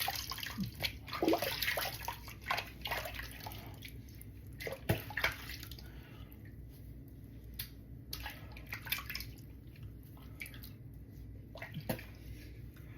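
Water splashing and dripping into a sink as a face is rinsed with cupped hands, busiest in the first few seconds, then thinning out to scattered drips and small splashes.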